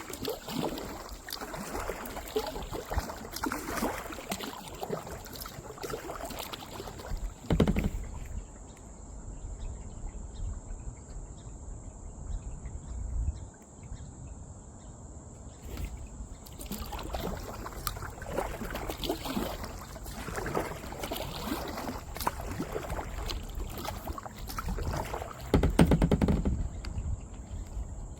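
Kayak paddle strokes dipping and splashing in river water, in two spells with a quieter pause of several seconds in the middle.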